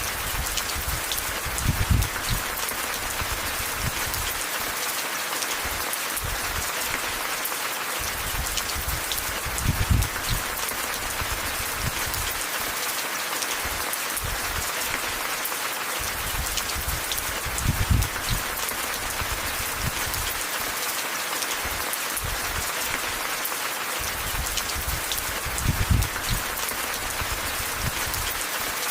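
Steady rain hiss with scattered fine patter. Four low, dull thumps come about eight seconds apart, and these are the loudest moments.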